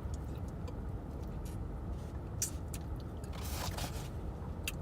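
Steady low rumble of a car, heard from inside its cabin, with a few small clicks and a brief rustling noise about three and a half seconds in.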